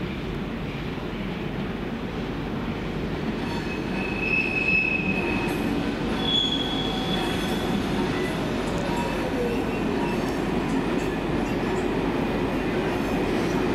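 A train running through a station, a steady rumble with brief high-pitched wheel squeals about four and six seconds in and a falling tone a little later.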